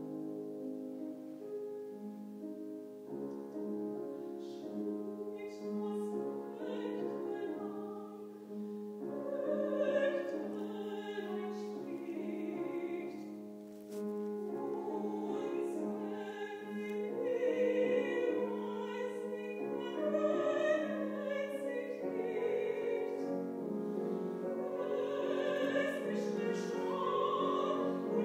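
A woman singing in classical operatic style with vibrato, accompanied by piano; the vocal line climbs higher and grows louder toward the end.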